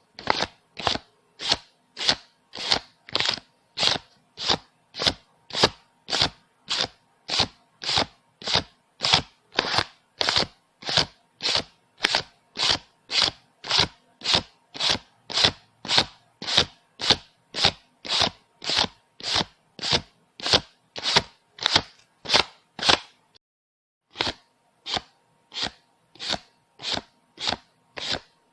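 Paper banknotes being counted one at a time, a short crisp flick about twice a second, with a pause of about a second near the end before the counting resumes.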